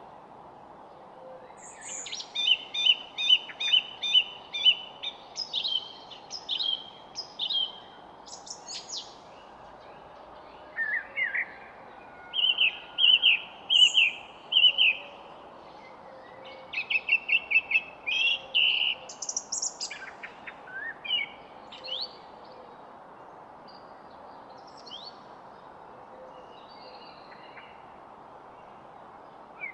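Songbirds singing in bursts of rapid chirps and trills, busiest in the first two-thirds and sparser near the end, over a steady background hiss.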